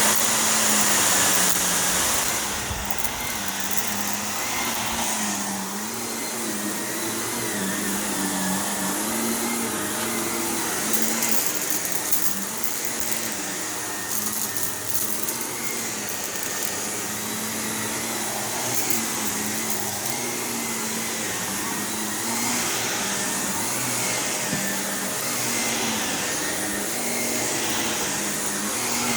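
Shark Navigator Lift-Away NV351 upright vacuum running steadily over carpet. Its motor pitch dips and rises with each push and pull stroke, with an occasional crackle from crunchy debris being sucked up.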